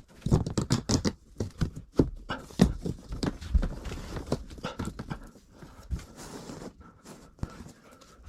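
Irregular knocks, clicks and low thumps of hands-on work, densest in the first half and thinning out later.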